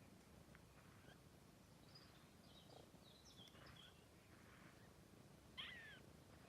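Faint animal calls: scattered high chirps and squeaks, then one short, louder call about five and a half seconds in, over a quiet room.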